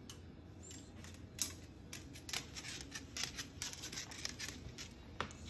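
A Moluccan cockatoo rummaging where it has poked itself in, making irregular quick clicks and scratchy rustles. The sharpest click comes about a second and a half in.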